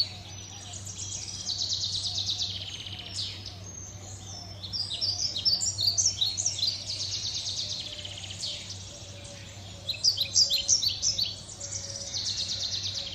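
Small birds chirping and chattering: bouts of rapid, high-pitched chirps that fall in pitch, mixed with buzzy, trilled chatter, coming in three bursts a few seconds apart. A steady low hum runs underneath.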